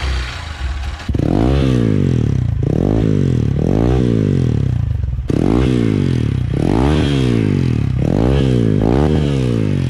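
Hero XPulse 200's single-cylinder engine on its stock silencer, idling, then blipped from about a second in. The revs rise and fall about seven times in quick succession.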